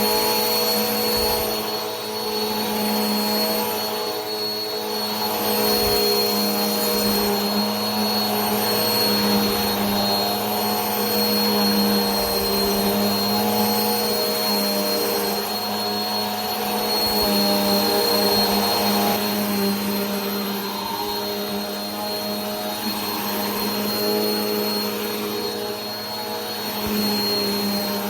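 Vacuum cleaner running continuously: a steady motor whine and rushing air hiss with a high thin tone, the level swelling and easing gently every few seconds.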